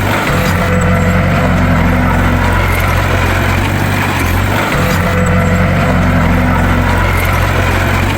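Heavy diesel engine of a bulldozer running steadily, its low note dipping briefly at the start and again about four and a half seconds in.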